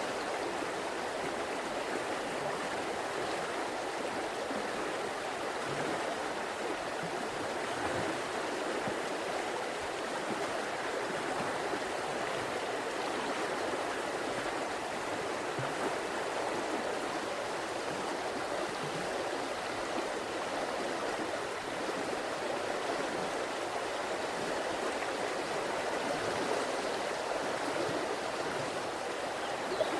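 River water flowing and babbling over rocks, a steady, unbroken rush.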